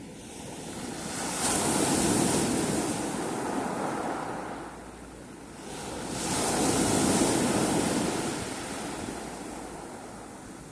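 Sea waves breaking and washing on the shore: two surges of surf, each building up and fading away, about five seconds apart.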